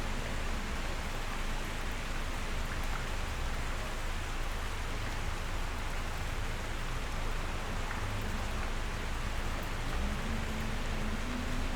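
Steady rain falling, an even hiss of drops, with a faint low hum slowly rising in pitch near the end.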